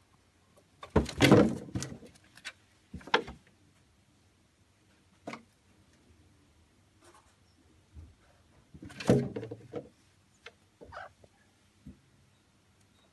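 Scuffling and knocking in two loud bursts, about a second in and again about nine seconds in, with a few single sharp taps between: an animal scrambling against things.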